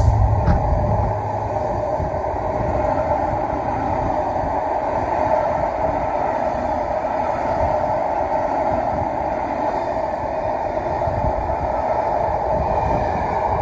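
Charter train carriages rolling past close by on a through line: a steady, loud rush of wheels on rail that holds unbroken throughout. The heavier low sound of the locomotives dies away in the first second or so.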